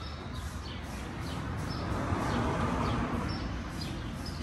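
Small birds chirping repeatedly over steady outdoor background noise, which swells for a second or so about halfway through and then eases off.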